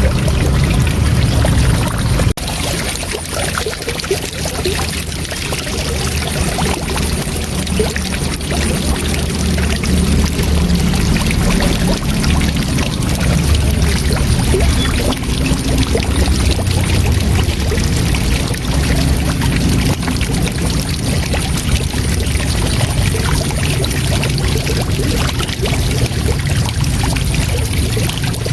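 Waterfall water rushing steadily, a continuous roar of falling water with a deep low rumble.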